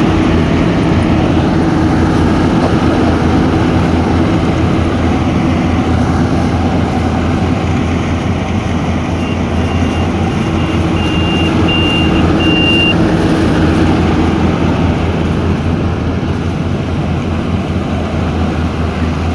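A vehicle engine running steadily and loudly. Around the middle, a string of short, high-pitched beeps sounds for a few seconds.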